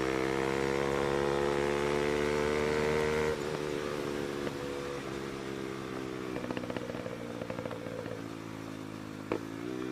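Bajaj Pulsar NS200's single-cylinder engine through an SC Project aftermarket exhaust, held at a steady high rev for about three seconds, then dropping off suddenly to a lower steady note. A run of rapid crackling pops from the exhaust comes past the middle.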